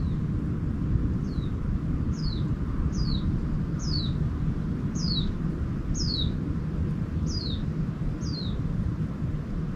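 A bird calling with short falling notes, about one a second, repeated nine or so times. Under it runs a steady low rumble, louder than the calls.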